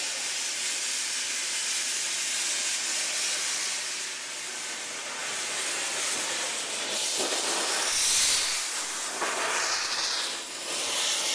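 Steam hissing from a narrow-gauge steam locomotive: a steady hiss with louder gusts in the second half.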